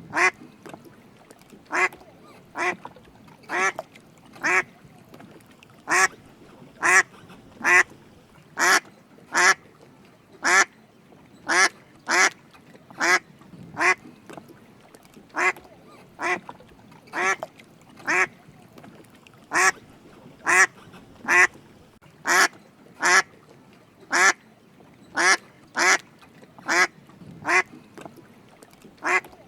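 Drake mallard quacking in a steady series of short calls, often two close together, about one call a second.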